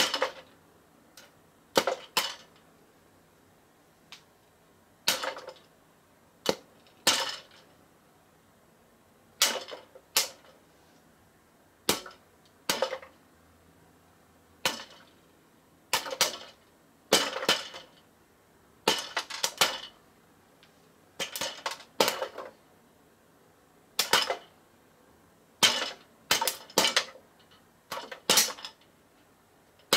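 Freshly popped, crispy popcorn being chewed close to the microphone: irregular crisp crunches, singly or in short clusters, every second or two.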